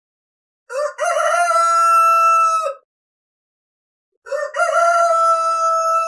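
A rooster crowing twice, each crow about two seconds long: a short opening note, then a long held note.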